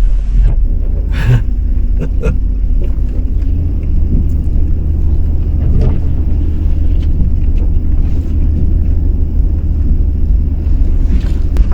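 Pickup truck driving, a steady low rumble of engine and road noise with a few brief knocks and rattles, as over bumps.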